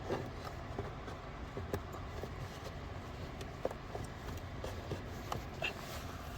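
Scattered light clicks and taps of small parts being handled, over a steady low background hum.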